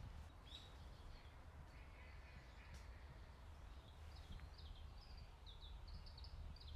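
Quiet outdoor ambience with a small bird's faint, short high chirps: one about half a second in, then a quick run of chirps in the second half, over a low steady rumble.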